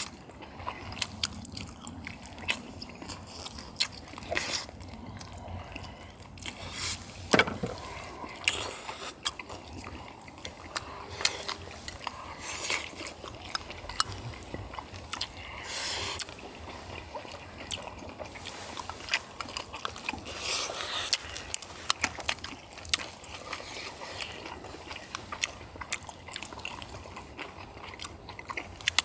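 Close-miked eating sounds of people chewing chewy braised chicken and webfoot octopus, with irregular wet smacks and clicks.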